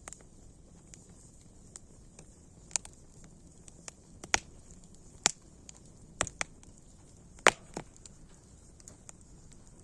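Wood fire crackling: irregular sharp pops a second or so apart, the loudest about seven and a half seconds in.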